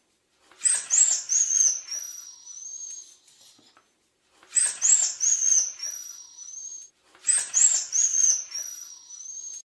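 High-pitched whimpering sound effect played three times in a row, each time a few quick squeals followed by a thin, held whine that rises slightly at its end.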